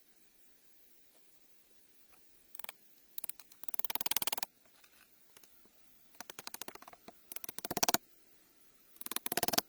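Six short bursts of fast, scratchy rasping, each less than a second long, with the longest near the middle.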